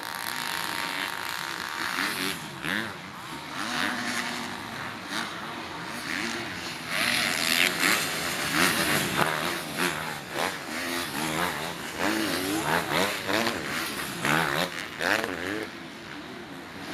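Motocross race motorcycles running on the track, several engines overlapping, their pitch rising and falling over and over as the riders open and close the throttle and shift gears. Passes get louder in the middle of the clip.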